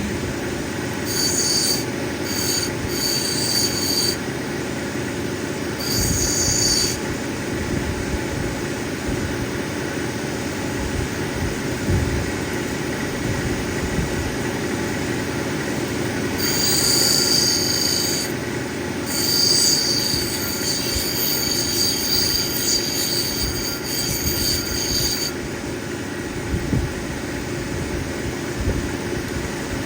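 Cabbing machine's motor running steadily while an opal is ground on a coarse wheel. A high-pitched whine from the stone pressed against the wheel comes and goes four or five times, the longest spell a few seconds past the middle.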